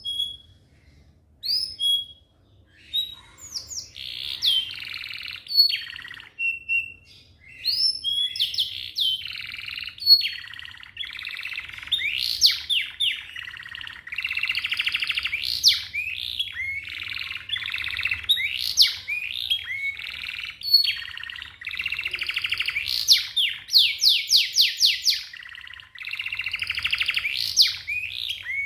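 Domestic canary singing: a few separate chirps, then from about four seconds in a long, almost continuous song of fast rolling trills and sweeping whistled notes.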